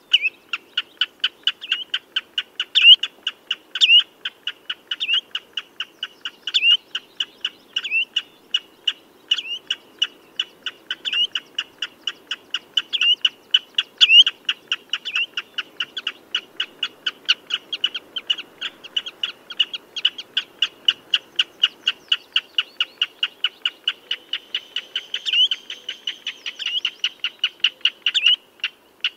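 Common redshank calling: short, high piping notes repeated rapidly and evenly, about three to four a second, with a brief pause near the end.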